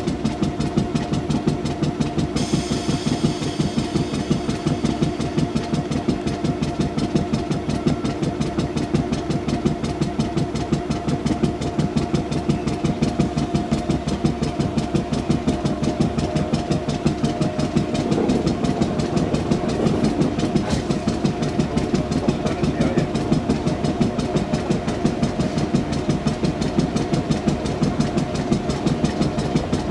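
4-CEP electric multiple unit train running slowly, heard from an open carriage window: a steady mechanical hum with a fast regular beat and wheel-on-rail noise, a little louder in the second half.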